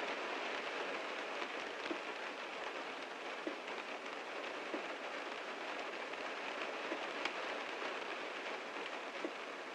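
Heavy rain falling on a car: a steady hiss of rain with individual drops striking sharply here and there.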